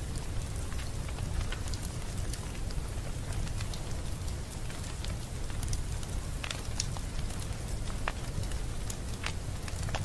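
Wood fire crackling: scattered sharp pops and snaps over a steady low rumble, with a few louder pops in the second half.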